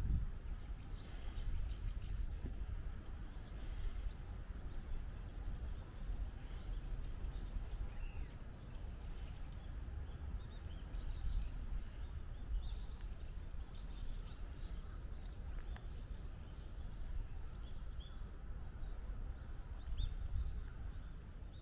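Many small birds chirping and calling, short repeated notes throughout, over a steady low rumble.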